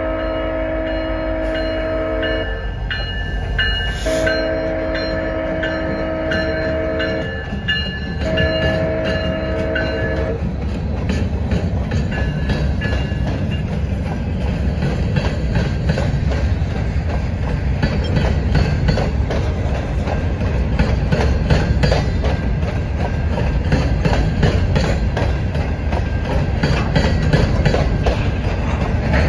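Alaska Railroad diesel freight locomotive's horn sounding a chord in three blasts, the last one shorter, stopping about ten seconds in. The train keeps passing close by, with a steady rumble and rhythmic clickety-clack from the steel wheels of open-top hopper cars, growing slightly louder.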